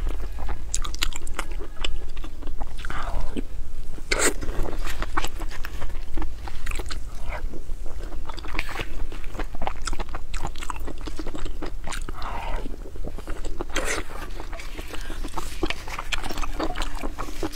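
Close-miked chewing and wet mouth sounds of someone eating a mouthful of a rice dish, a dense run of irregular sharp smacks and clicks. A wooden spoon now and then scrapes and knocks in a metal bowl.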